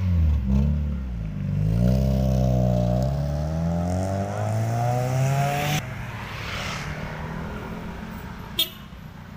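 Car engine revving as a car pulls away close by, its pitch climbing steadily for several seconds before cutting off abruptly. After that comes a quieter steady street hum, with a short sharp click near the end.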